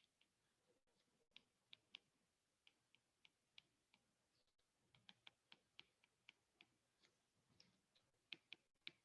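Near silence broken by faint, irregular clicks and taps, a few a second, the sound of writing on a board.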